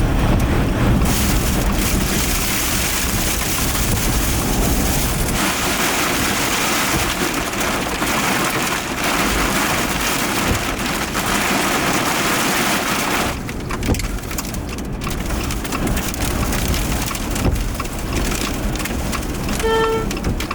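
Heavy rain and wind from a supercell's rear-flank downdraft beating on a storm-chase vehicle, with a steady roar that surges and eases a few times. A short electronic beep sounds near the end.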